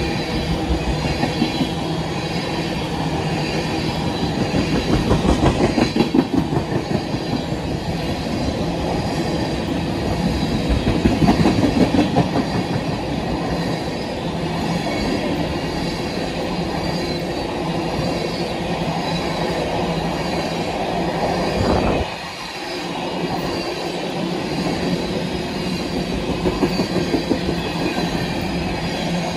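Empty oil tank cars of a freight train rolling past at speed: a steady rush of steel wheels on rail, swelling rhythmically at times as wheel sets pass. The level drops sharply for a moment about three-quarters of the way through.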